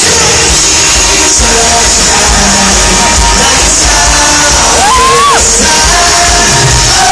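Live pop-band concert music played loud, with the audience yelling and screaming over it; a high voice slides up and holds a note about five seconds in.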